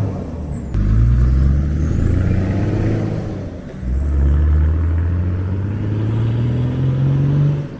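Nissan GU Patrol's 2.8-litre RD28 six-cylinder turbo-diesel under acceleration, fitted with a fuel power chip. The engine pitch climbs steadily, dips near the middle as a gear change, climbs again, then cuts off just before the end.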